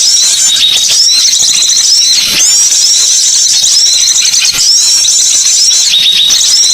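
Bird lure recording: a loud, dense stream of high, shrill chirps and twitters from songbirds. Short curving notes overlap and repeat several times a second.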